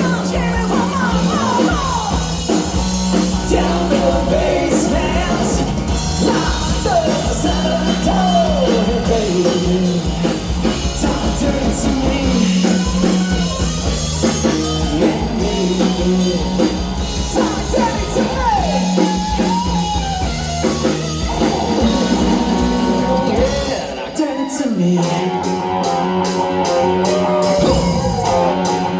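Rock band playing a song with a singer, drums and guitar. About 24 seconds in, the singing stops and the band carries on instrumentally.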